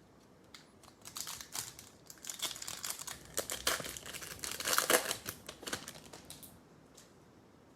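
A foil trading-card pack wrapper being torn open and crinkled, with a dense crackling rustle lasting about five seconds before it stops.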